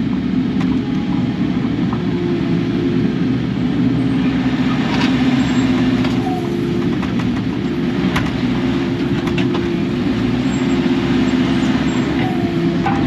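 Kubota KX080 excavator's diesel engine running steadily at working revs, with a few sharp knocks and clanks as the machine works.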